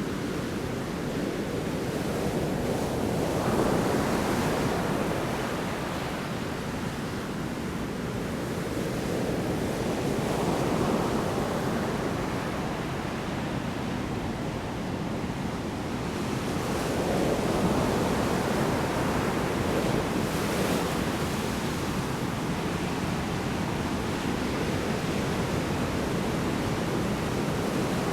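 Big storm waves breaking on a shore: a constant rushing surf, with a louder surge as a wave crashes about every seven seconds.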